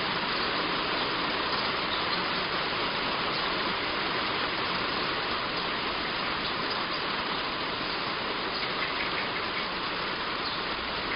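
Heavy rain falling steadily on a roof, an even hiss.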